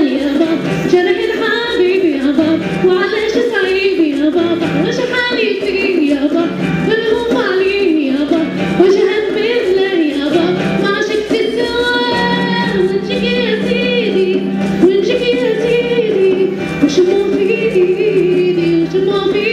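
An Arabic song: a singing voice carries a winding, wavering melody over musical accompaniment, and a steady low note comes in about twelve seconds in.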